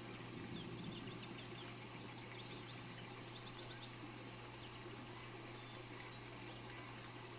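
Steady hiss of rain over a low hum, with faint quick bird chirps through the first half.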